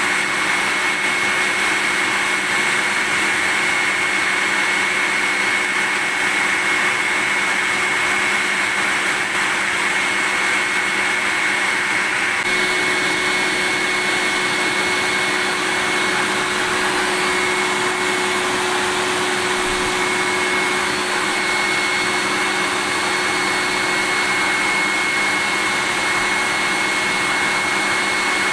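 Vacuum cleaner running continuously: a steady rushing hiss with a steady high whine over it, its tone shifting slightly about twelve seconds in.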